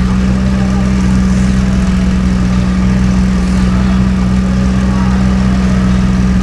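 A car engine idling steadily, with a constant deep hum and no revving.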